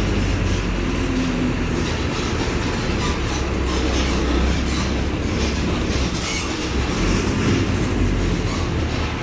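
Diesel engine of a Mercedes-Benz OF-1721 BlueTec 5 city bus running, a steady low rumble with a clatter of small rattles and clicks over it.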